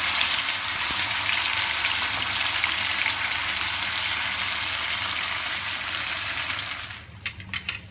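Wet ground onion-tomato paste sizzling in hot oil with whole spices in a nonstick frying pan, a steady loud hiss. It dies down sharply about seven seconds in, leaving a few faint ticks.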